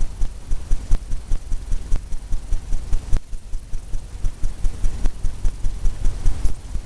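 Paint brush dabbing and scrubbing on a stretched canvas in quick rhythmic strokes, several low thumps a second from the canvas.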